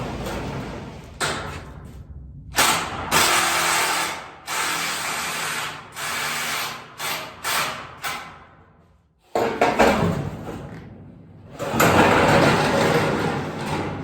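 Power tool run in a string of short bursts, each from a fraction of a second to about two seconds long, while tin roofing panels are cut and screwed on.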